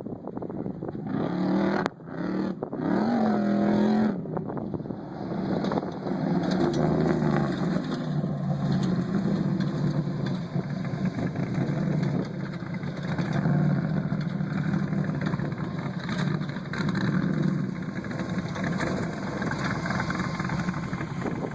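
Trophy truck engine revving in quick pulls, its pitch gliding up and down, then running hard with a wavering pitch.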